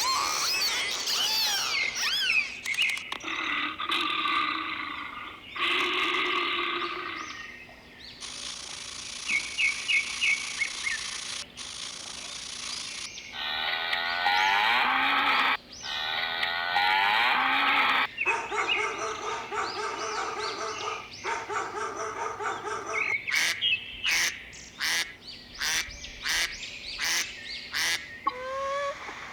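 Several different animal and bird calls in short clips that change abruptly every few seconds, with bird chirps near the start and the end.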